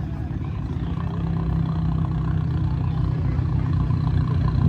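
Car engine idling with a low, steady exhaust note, growing gradually louder.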